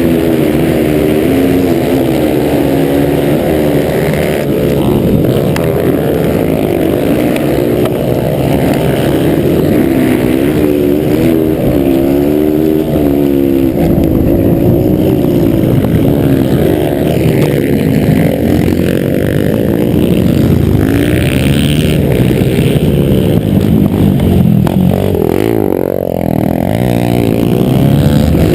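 Several motocross motorcycle engines revving, their pitches rising and falling as they accelerate and back off.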